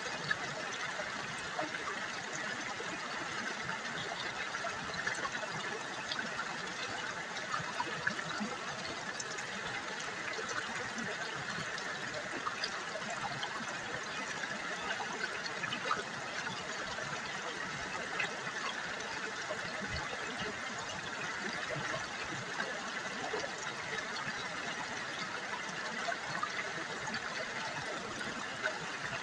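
River water babbling and trickling, a steady splashing rush full of small bright drips.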